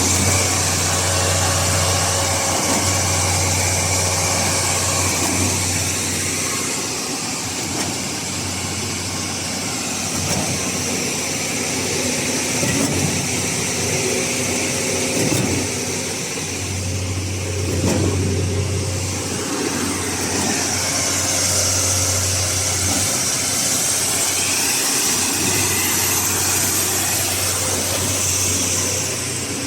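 Concrete mixer pump's engine running steadily, with a few short knocks along the way.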